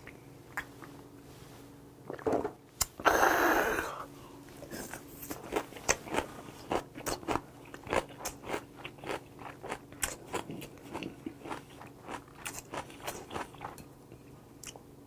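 Close-up mouth sounds of a man chewing raw mullet sashimi after a shot of soju: a steady run of wet chewing clicks, about two a second, starting around four seconds in and fading near the end. A short, louder noisy burst comes about three seconds in.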